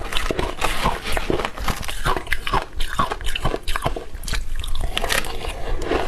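Close-miked biting and chewing of crunchy ice: a rapid, irregular run of sharp crunches that goes on without a break.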